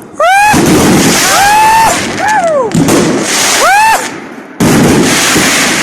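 Fireworks salute going off: a dense run of loud bangs and crackle with short gaps. Over it are several tones that rise and fall in pitch, each about half a second long.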